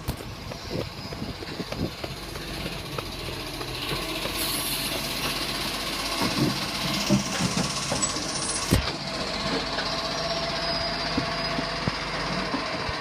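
Steady rumbling of a large vehicle, with scattered knocks and clanks through it.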